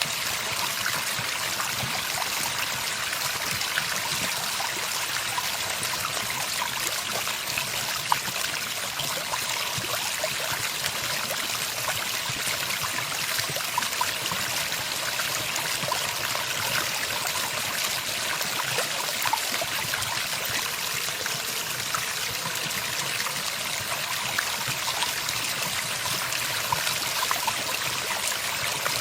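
Running water, a steady stream trickling and splashing with no birdsong.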